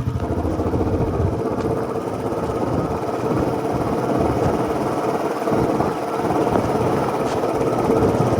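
Royal Enfield Standard 350's single-cylinder four-stroke engine running steadily, its firing pulses coming in an even, rapid stream.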